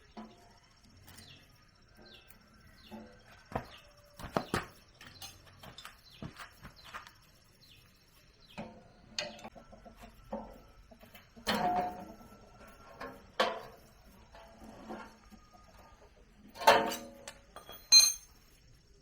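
Scattered knocks and clinks of hand work on metal, irregular, the loudest a few seconds apart, with a few short animal calls among them.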